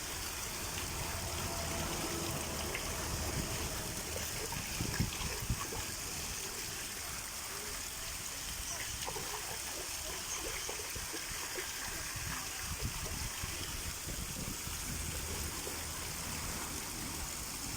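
Steady flowing, trickling water.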